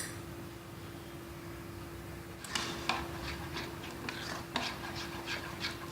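A spoon stirring besan batter in a bowl, mixing in turmeric: quick irregular clinks and scrapes against the bowl that begin about halfway through, after a single click at the start.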